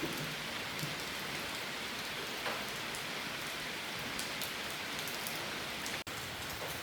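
Steady rain falling on a surface in a storm: an even hiss with scattered faint taps of drops. The sound cuts out for an instant about six seconds in.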